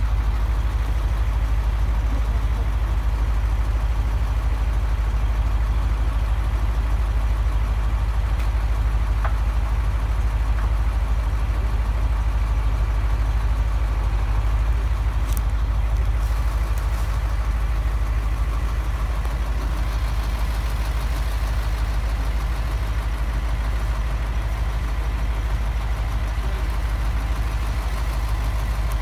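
An engine running steadily with a constant low drone, its pitch and level unchanging throughout, with one short click about halfway through.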